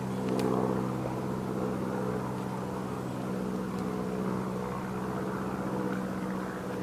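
A steady engine drone, constant in pitch, with no rise or fall.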